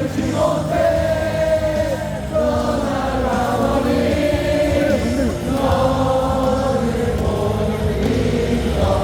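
Baseball stadium crowd singing a cheer song in unison over amplified music.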